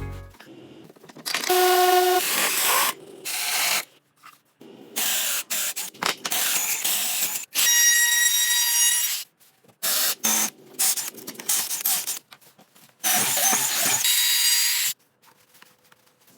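A power tool run in repeated short bursts, some with a motor whine, stopping and starting again a dozen or so times before falling quiet near the end.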